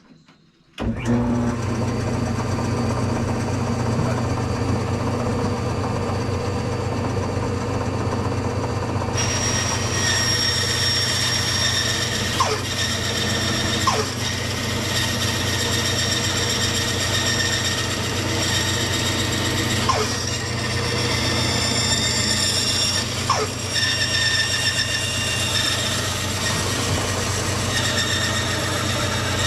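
Bandsaw switched on about a second in and running steadily with a low hum; from about nine seconds in its blade is cutting through a glued-up teak and pine guitar body blank, adding a higher, brighter cutting sound.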